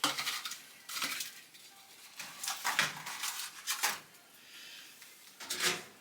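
Several short bursts of scraping and knocking as a plant pot and potting soil are handled during repotting.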